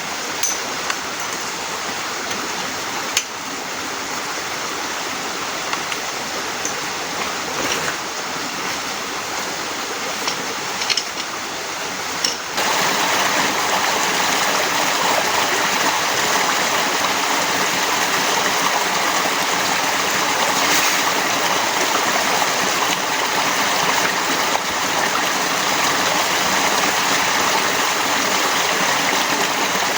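Heavy rain falling steadily, with a few sharp drips and taps in the first dozen seconds. About twelve seconds in the rain noise jumps suddenly louder and brighter and stays that way.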